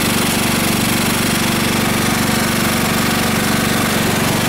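The 13-horsepower engine of a Yard Machines riding lawn mower running steadily, with a fast even beat.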